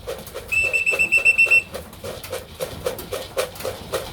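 A pea whistle blown in one trilling blast of about a second, starting about half a second in: a recall call to bring racing pigeons in to the loft. Underneath, a steady rhythmic rattling of about four beats a second.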